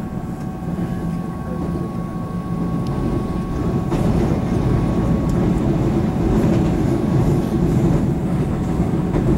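Taiwan Railways EMU700 electric multiple unit running along the line, heard from inside the passenger car: a steady rumble of wheels on rail with a thin steady tone over it, getting a little louder about four seconds in.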